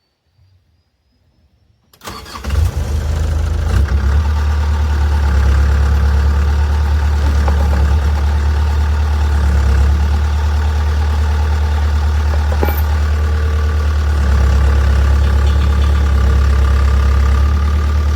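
1992 Hitachi EX60 excavator's diesel engine, cutting in suddenly about two seconds in and then running steadily with a deep drone.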